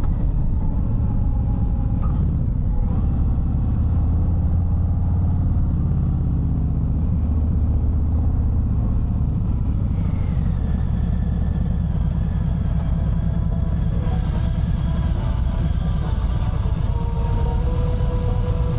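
Harley-Davidson Fat Bob 114's Milwaukee-Eight 114 V-twin running under way, a steady deep rumble whose pitch shifts a few times with the throttle. About two thirds of the way in, a hiss of wind or road noise rises on top.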